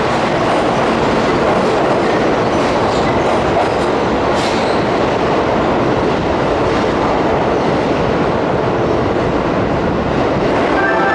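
Keihan Main Line electric train running along the platform of an underground station: a steady loud rumble of wheels on rail, with occasional clicks.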